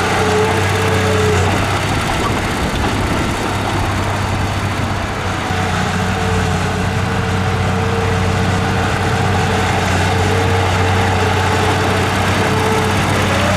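Heavy-equipment diesel engine running steadily with a deep, even hum. A thin, high whine comes and goes over the top of it.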